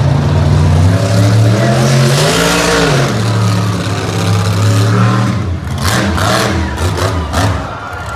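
Monster truck engine revving hard, its pitch climbing and dropping about two seconds in, then holding at steady throttle. Several sharp bangs and clatter follow near the end.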